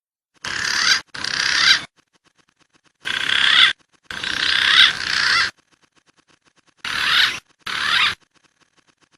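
Green pigeon (punai) calls from a lure recording: three pairs of wavering whistled calls over a hiss, each pair about a second or more long, each call starting and cutting off abruptly.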